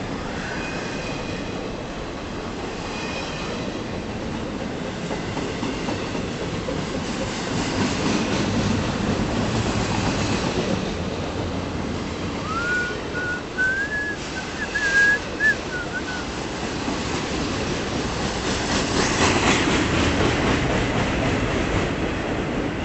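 Double-stack intermodal freight cars rolling past at close range: a steady rumble and clatter of steel wheels on rail, growing louder partway through. A thin, wavering high squeal is heard for a few seconds midway.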